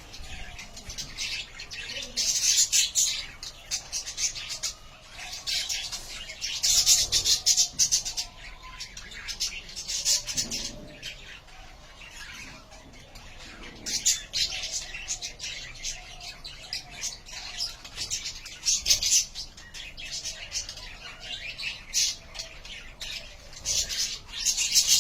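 Budgerigars chattering and chirping: a continuous rapid high-pitched warble that swells into louder bursts every few seconds.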